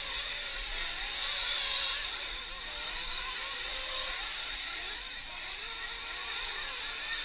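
Several 1/8-scale nitro RC truck engines running at high revs on the track, a steady high-pitched buzz that wavers as the throttles open and close.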